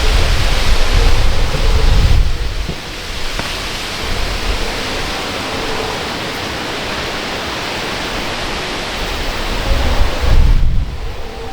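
Wind buffeting the microphone in strong gusts, in the first two seconds and again near the end, over a steady rushing noise.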